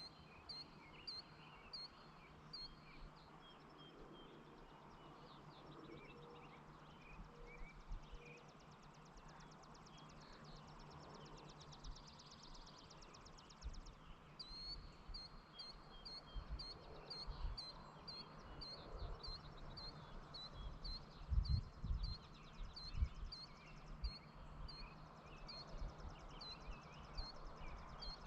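Rural evening birdsong: one bird repeats a short high chirp nearly twice a second, other birds call, and a buzzy trill sounds in the middle. Low thumps come in the second half, loudest about three quarters of the way through, over a faint steady low hum.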